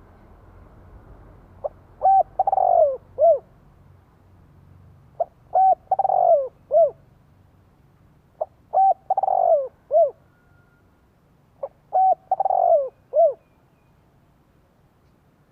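Spotted dove cooing: four matching calls about three seconds apart, each two or three short coos and a longer falling coo, ending with one short coo. This is the call used as a decoy to draw wild doves to answer.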